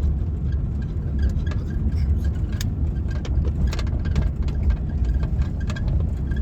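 Cabin noise inside a moving 1998 Suzuki Baleno: a steady low road-and-engine rumble with irregular sharp clicks and rattles from the dashboard area. This is the creaking rattle being hunted, which the mechanic suspects comes from behind the sound-deadening panel.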